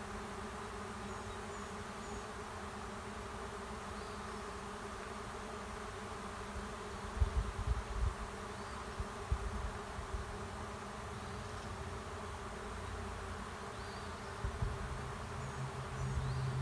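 Honey bee swarm buzzing as a steady, many-toned hum while the bees fly in and settle into an empty hive box. Low rumbles come about seven seconds in and again near the end.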